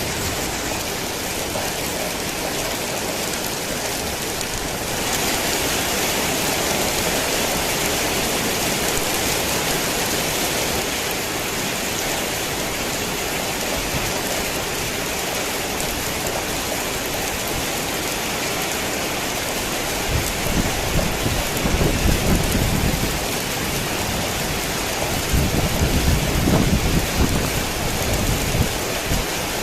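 Heavy rain falling steadily, getting heavier about five seconds in for a few seconds. Low rolls of thunder rumble twice in the last third.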